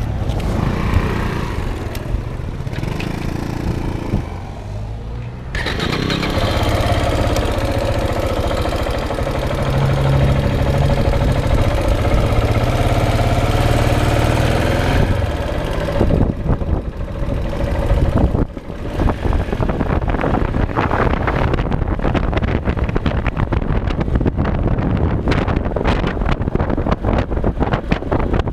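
Single-cylinder dual-sport motorcycle engine running steadily, its even note clearest through the first half. From about halfway through, wind rushes and buffets over the microphone as the bike rides on.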